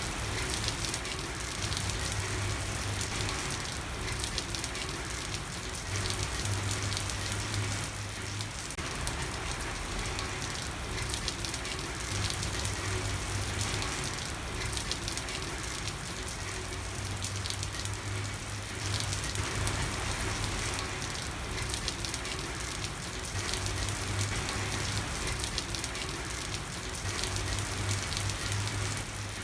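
Steady rain falling on a street, a continuous hiss of drops with fine ticks of individual drops. A low hum rises and fades in stretches of a few seconds underneath.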